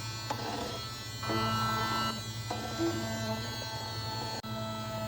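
Miniature USB-powered handheld vacuum's tiny motor running with a steady buzzing whine. Its tone shifts a few times as it works over dirt, and it drops out for an instant near the end.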